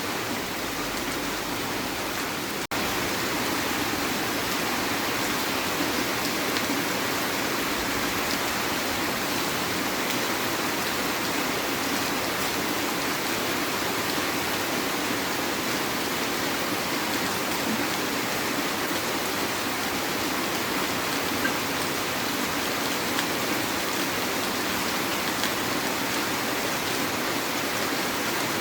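Heavy rain falling steadily, a dense even hiss. A momentary break about three seconds in, after which it is slightly louder.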